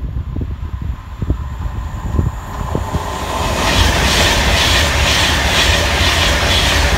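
Class 390 Pendolino electric train passing at speed close by, its rush building about three seconds in. Its wheels clatter over rail joints in a regular rhythm of about three beats a second.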